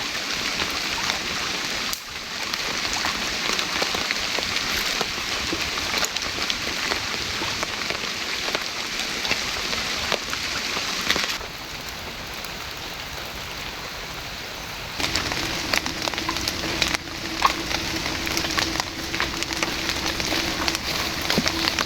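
Steady rain pattering, a dense hiss full of fine drop clicks, broken by abrupt cuts about two and eleven seconds in. From about fifteen seconds in, a steady low hum and sharper clicks join the patter.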